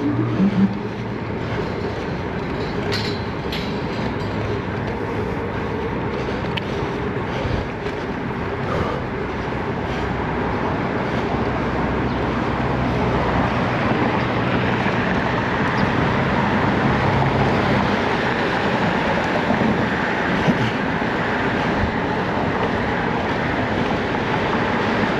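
Steady rush and rumble of riding a bicycle: wind and road noise on a chest-mounted action camera while pedalling along a city bike path, with traffic around.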